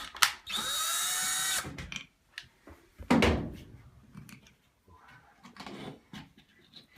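Cordless drill whirring in a steady burst of about a second, driving a screw through plywood into the wall, followed by a second, shorter noisy burst about three seconds in and then light clicks and knocks.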